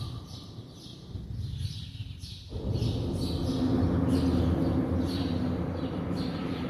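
Swallows chirping over and over from their mud nests under a bridge, a quick run of short high calls. About two and a half seconds in, a louder steady low rumble sets in underneath them and carries on.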